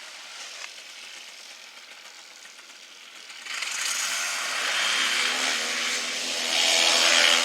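A loud rushing, whirring noise starts suddenly about three and a half seconds in, with a motor-like hum beneath it rising in pitch; it is loudest near the end.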